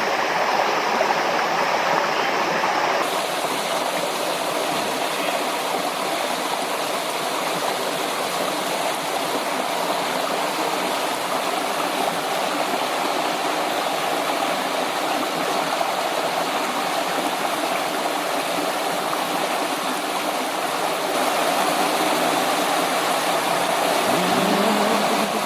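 River water rushing steadily over rocks, a continuous even wash of flowing water.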